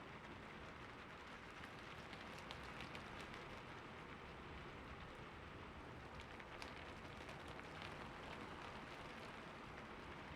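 Slow, light rain: a soft, even hiss with many separate drops ticking. A few sharper drop hits come about three and six and a half seconds in.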